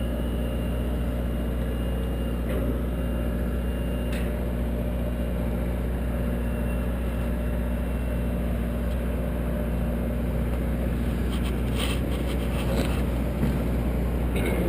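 Engine of an aerial lift running steadily, with a few light clicks and a short cluster of them near the end.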